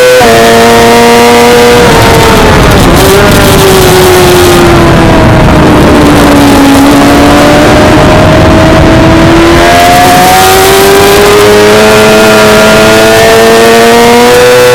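Suzuki GSX-R600 inline-four engine at racing revs. The engine note drops for about five seconds as the bike slows, then climbs steadily under acceleration, with a brief break at a gear change about ten seconds in and another near the end.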